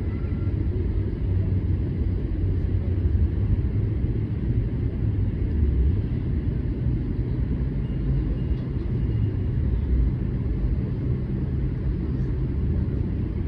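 A steady low rumble, with a faint high whistle about eight seconds in.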